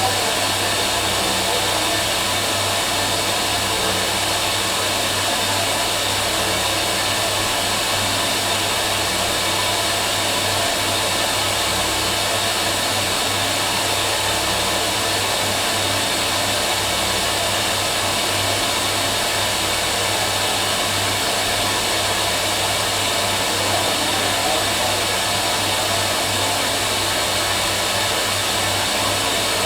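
Fisher & Paykel MW512 washing machine running, a steady unbroken whir with a low hum underneath.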